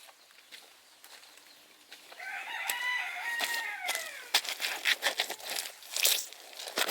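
A rooster crows once, a single arching call about two seconds long, starting about two seconds in. It is followed by a run of sharp crackling clicks.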